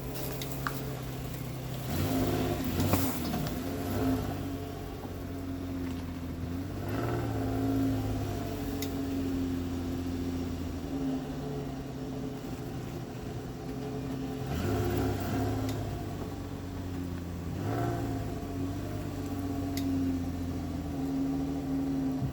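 Pickup truck engine running at low revs, its pitch dropping and rising a few times, with a few knocks and clatter of wood near the start and midway.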